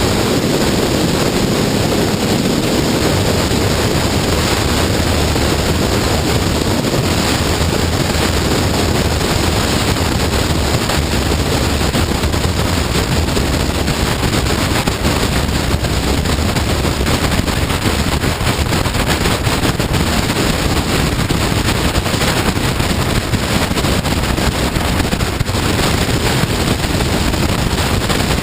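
Honda CBR954RR motorcycle ridden at speed: a steady rush of wind across the microphone, with engine and road noise beneath it and no break.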